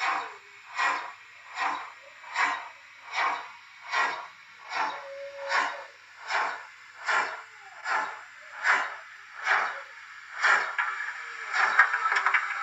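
DCC sound decoder in a Liliput model DRG class 75 steam tank locomotive playing steam sounds: evenly spaced puffs of steam, a little more than one a second. From about ten seconds in they give way to a steady, louder hiss.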